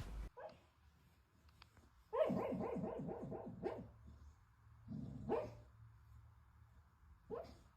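Sleeping dog barking and yipping in its sleep: a short yip, then a quick run of about seven short barks, then two more single barks spaced a couple of seconds apart.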